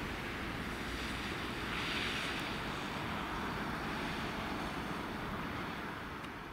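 Steady distant rumble and hiss of a departing passenger train running out through the rail yard, fading slightly near the end.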